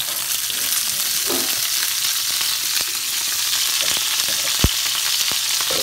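Skin-on chicken pieces frying in olive oil in a pan, a steady sizzle with scattered small pops and one sharp pop about four and a half seconds in.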